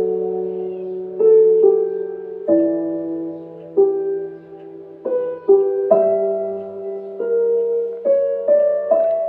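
Slow, gentle piano music: single notes and soft chords struck every second or so and left to ring and fade into one another.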